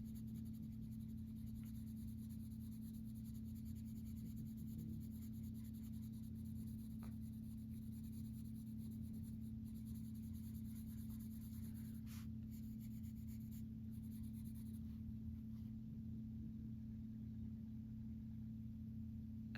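Coloured pencil scratching softly on paper as a page is coloured in, over a steady low hum.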